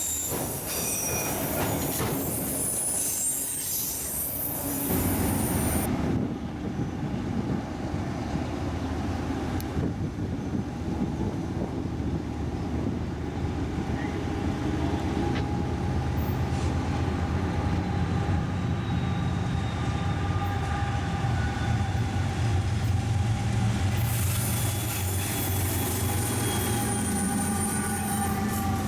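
A train rolling past with its wheels squealing steadily against the rails and a clickety-clack over the rail joints, over a low rumble that comes in about five seconds in.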